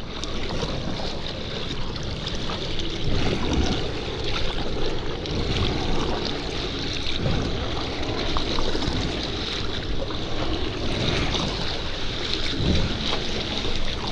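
Water splashing and sloshing around a kayak being paddled, with wind buffeting the microphone in irregular gusts.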